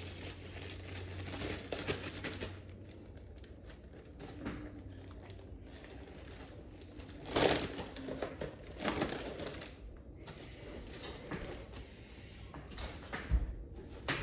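Things being handled: irregular rustling and crinkling with scattered light knocks, a few sharper clatters about seven and a half, nine and thirteen seconds in.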